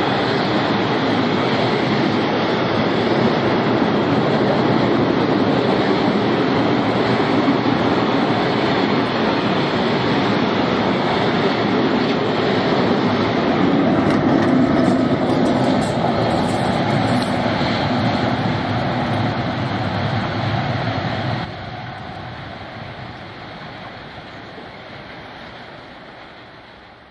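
Freight train of open box wagons rolling past close by: a steady heavy rumble and clatter of steel wheels on rails. Past the middle, a class 183 electric locomotive goes by. About three-quarters of the way in, the sound drops suddenly to a quieter train rumble that fades away.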